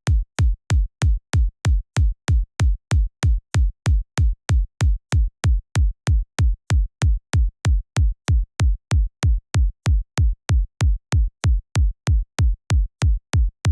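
Synthesized electronic kick drum from the Kick 2 plugin looping on its own, just under three hits a second. Each hit is a short click followed by a deep tone that drops quickly in pitch. The loop stops abruptly at the end.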